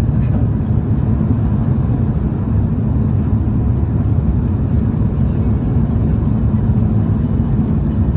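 Airbus A330-200 airliner during takeoff, heard from inside the cabin: a steady, loud, deep rumble of jet engines and airflow.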